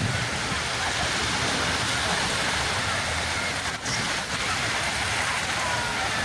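Sea waves washing continuously on the shore: a steady rushing noise that dips briefly twice a little past the middle.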